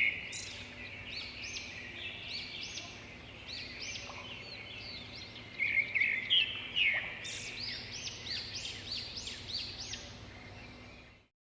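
A flock of small birds chirping and calling together, with many short, high, overlapping calls, busiest near the start and again from about six seconds in. The sound cuts off suddenly near the end.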